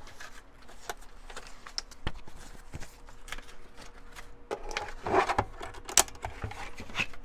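Paper being cut and handled: scattered small clicks and short rustles, busiest about five seconds in, with a sharp click a second later, over a faint steady hum.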